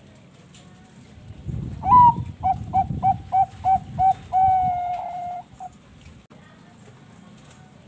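A Bangkok-line zebra dove (perkutut) cooing one song phrase about two seconds in: a rising opening note, a quick run of about seven short notes, then a long held note and a short last note.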